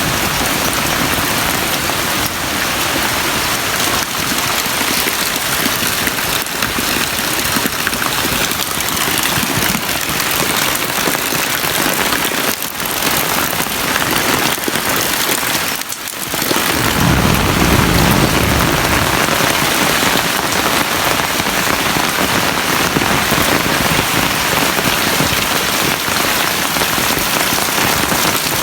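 Heavy rain pouring steadily. About two-thirds of the way through, a brief low rumble rises under the rain.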